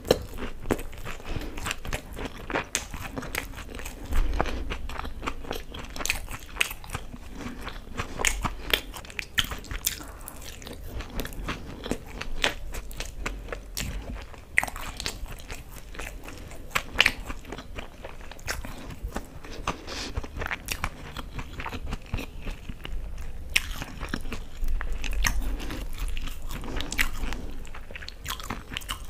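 Close-miked chewing of fried pakodas coated in wet green chutney: crisp crunches and wet mouth sounds, with many small irregular crackles.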